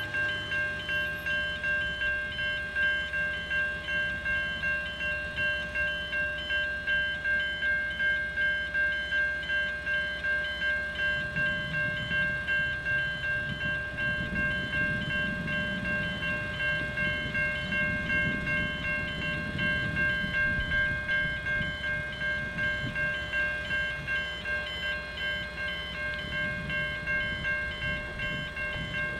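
Safetran Type 3 electronic level-crossing bells ringing at an even, repeating pace, the sign that the crossing is active for an approaching train. Partway through, a low rumble rises and fades under the bells as a train passes.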